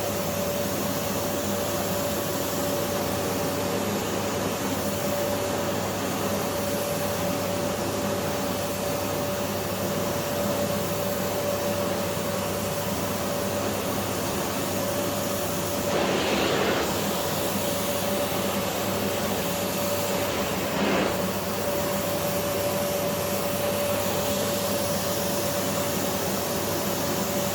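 Philips PowerPro FC9331/09 bagless cyclonic vacuum cleaner with its 900 W motor running steadily while vacuuming, making an even rushing sound with one steady whine. Two brief louder swishes come partway through. The sound is very low.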